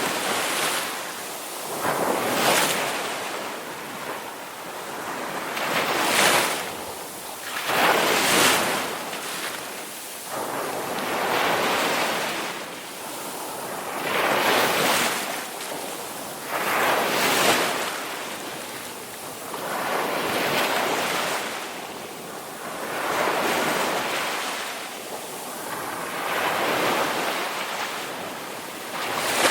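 Ocean surf, waves breaking and washing in, each swelling up and falling away, with a new surge every two to four seconds.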